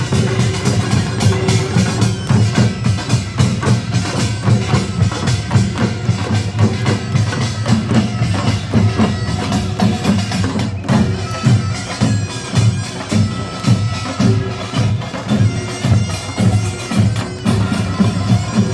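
Gyeongsang-do nongak, Korean farmers' band music: drums and small gongs beat a fast, driving rhythm while a shrill double-reed taepyeongso plays a held melody over it.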